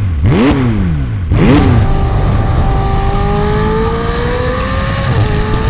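McLaren 600LT's twin-turbocharged V8 heard through its top-exit exhausts, revving sharply up and down three times in quick succession. It then pulls steadily with the pitch slowly rising, dips briefly about five seconds in like an upshift, and climbs again.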